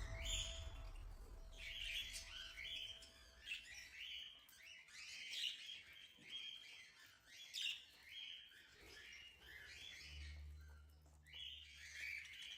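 Budgies chattering and chirping, a flock of many quick overlapping calls, with a faint low hum for about two seconds near the end.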